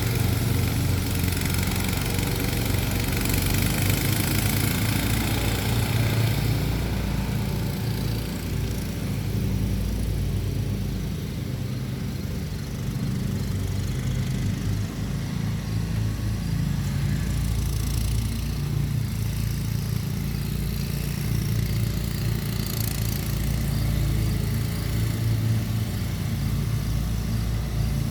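Kawasaki mower engine running steadily on a new ignition coil, its no-start fault cured. The drone eases a little after about seven seconds.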